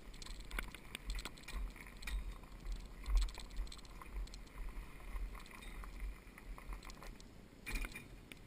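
Light irregular clicks and rattles over an uneven low rumble, with no engine running.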